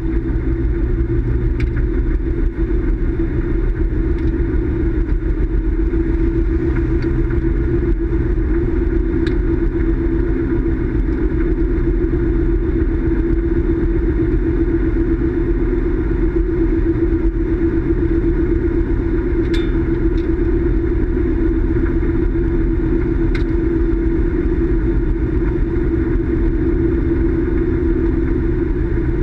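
Car engine running steadily at an unchanging pitch, with a few faint clicks over the drone.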